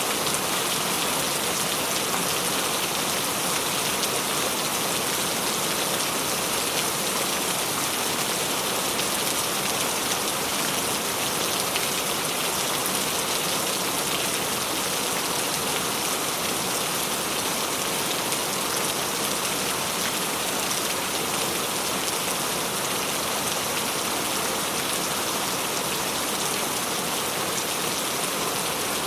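Steady rain falling and pattering on surfaces, an even hiss of many drops with no change in strength.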